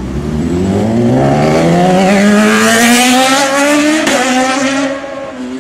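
BMW S1000RR inline-four engine revving up steadily for about four seconds. The rise breaks off with a brief click, and the engine settles to a steady lower pitch.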